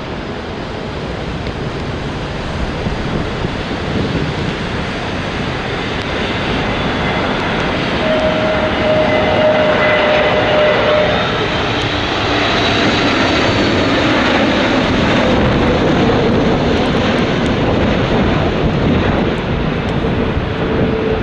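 Jet airliner passing close on its landing approach: engine noise building over several seconds to a loud peak about ten seconds in and staying loud, with faint engine tones sliding slightly downward as it goes by.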